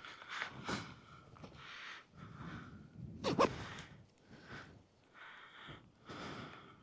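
A person breathing heavily close to the microphone, a series of breathy exhales and sighs, with one short louder voiced gasp about three and a half seconds in.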